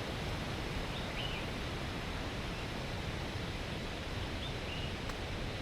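Steady rushing roar of Bousra Waterfall, even throughout, with a couple of faint short high chirps about a second in and again near the end.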